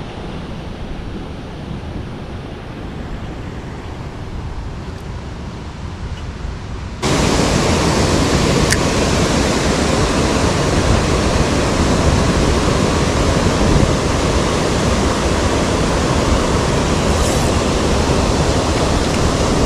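Steady rushing noise of creek water over riffles, mixed with wind on the microphone. About seven seconds in it jumps abruptly louder and brighter and stays that way.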